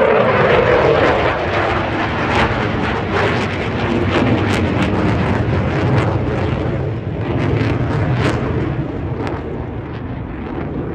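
Eurofighter Typhoon's twin EJ200 jet engines at high power in a display flypast: a loud, crackling jet noise that drops slightly in pitch in the first second and fades a little near the end.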